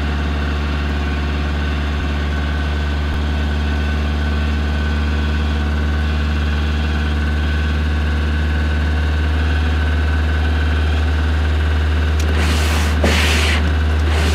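Car engine with a vacuum leak idling steadily, a low even hum. Near the end, two spells of hissing come in over it.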